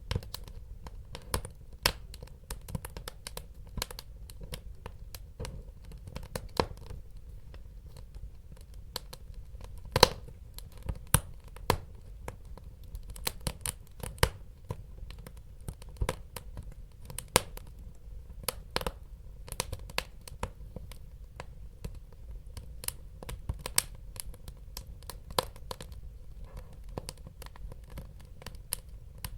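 Wood fire crackling in a fireplace: irregular sharp pops and snaps over a steady low sound of burning, with one louder pop about ten seconds in.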